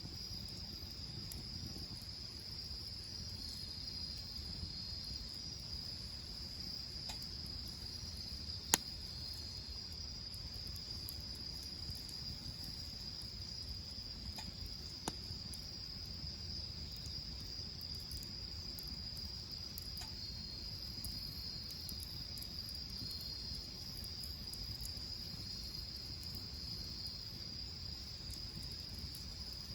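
Insects trilling steadily in a continuous high-pitched drone, with a second, slightly lower trill coming and going. A low rumble runs underneath, and there is one sharp click about nine seconds in.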